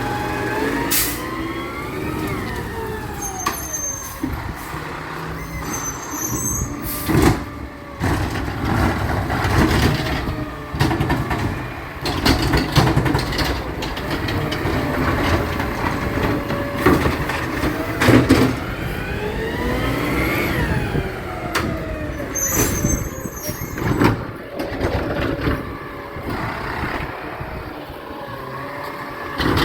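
Garbage truck at work: its engine revs up and down several times, with a few sharp bangs and short air-brake hisses.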